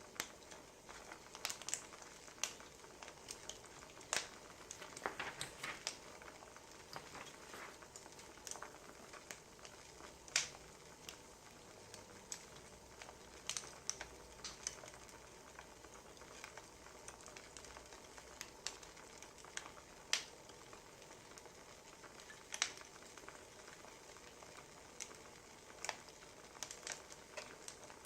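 Wood fire crackling, with irregular sharp pops and snaps over a steady soft hiss.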